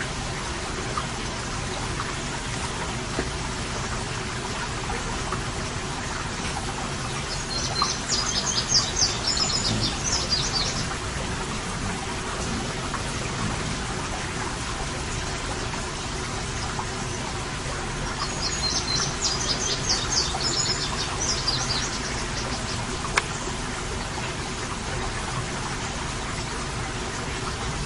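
A bird calls in two quick, high chirping phrases, each about three seconds long, about eight and nineteen seconds in, over a steady background hiss.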